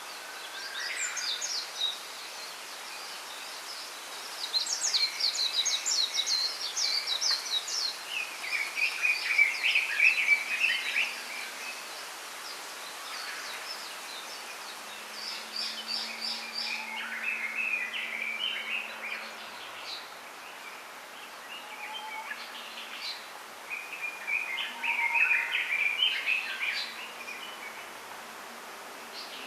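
Small songbirds singing in rapid twittering phrases a few seconds long, one after another, over a steady background hiss.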